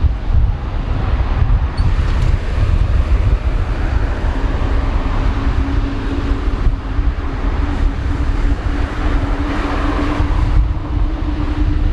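Airbus A350-900's Rolls-Royce Trent XWB turbofans at takeoff thrust during the takeoff roll: a heavy low rumble with a steady whine that comes in about four seconds in and slowly rises in pitch.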